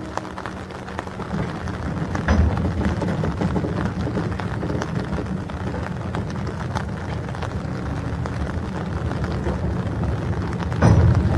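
Freight train of steel hopper wagons hauled by a diesel locomotive rolling slowly away from the station: a steady low rumble with scattered clanks of wheels and couplers, a loud clank about two seconds in and another near the end. Rain falls throughout.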